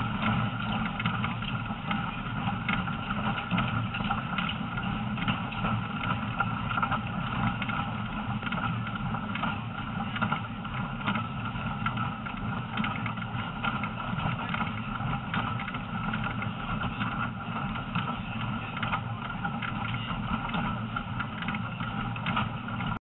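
Heritage train carriages in motion: a steady running noise of wheels on the rails with frequent small clicks and rattles. It cuts off suddenly at the very end.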